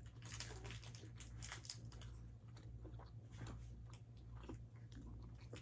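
Faint chewing and wet mouth clicks of someone eating, with many small irregular smacks and crackles over a low steady hum.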